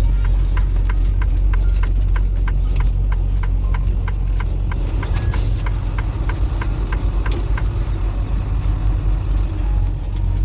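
Semi-truck engine running with a steady low rumble, heard from inside the cab, with a quick even ticking of about three ticks a second over it.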